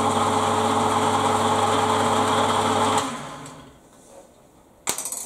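Electric lathe motor running steadily with a constant hum and whine on a test run after its wires were swapped to reverse its rotation. It is switched off about three seconds in and spins down over about a second, then a sharp click near the end.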